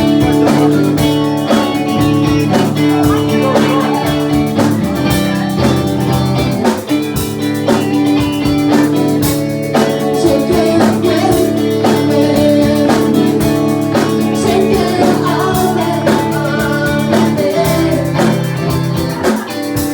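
Live band playing a song, with guitar and a singing voice over a steady beat.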